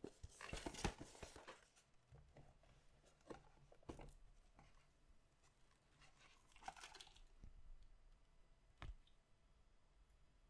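Packaging of collectible card packs being torn and crinkled by hand: a burst of tearing just after the start and another about two-thirds of the way through, with a few light clicks and taps between.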